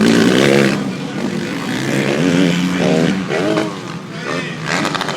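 Motocross motorcycles racing, their engines revving hard. The pitch climbs and drops back several times as the riders open the throttle and shift gears.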